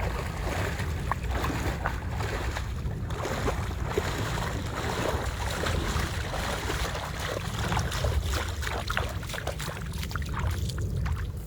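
Water splashing and sloshing close to the microphone as a person swims, over a steady low rumble of wind on the microphone.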